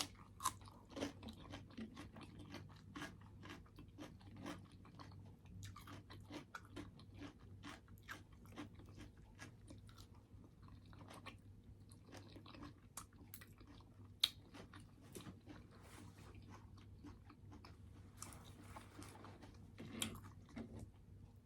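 Close-miked chewing and crunching of a mouthful of turkey-and-rice taco bowl, with many soft wet clicks and crackles and one sharper click about two-thirds of the way through.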